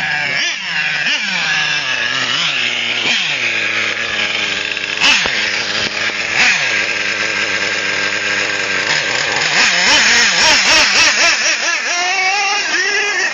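O.S. 30 nitro engine of an XRAY XT8 1/8-scale RC truggy, a high-pitched buzz that revs up and down again and again as the car is driven. Two short sharp knocks come in the first half.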